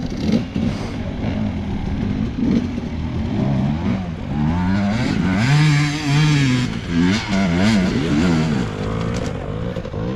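Enduro motorcycle engine revving up and down repeatedly as the throttle is worked, holding higher revs for about a second midway through.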